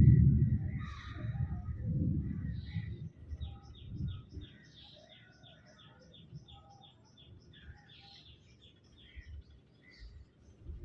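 Birds calling and chirping. One bird repeats a quick series of short, falling notes, about three a second, for several seconds. A low rumble, loudest at the start, fades away over the first three seconds.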